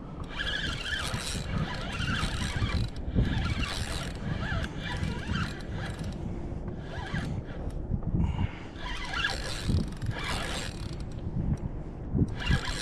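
Kayak under way while trolling: irregular swishes of water and wind against the hull and microphone, with small scrapes and knocks of gear.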